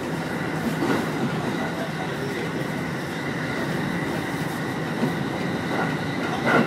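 Electric commuter train running along the line, heard from inside the front car: a steady rumble of wheels on rails with a constant high whine. A few short knocks come through it, the loudest near the end.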